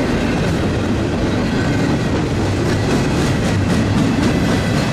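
Canadian Pacific double-stack container train's freight cars rolling past, a steady rumble of steel wheels on rail. A rhythmic clickety-clack of wheel clicks becomes plainer about halfway through.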